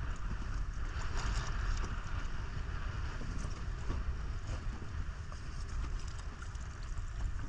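Wind buffeting the microphone over the slosh of water around a boat, a steady rumbling noise with faint scattered ticks.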